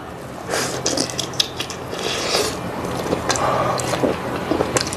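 A person eating a steamed bun close to the microphone: biting and chewing, with irregular short mouth noises.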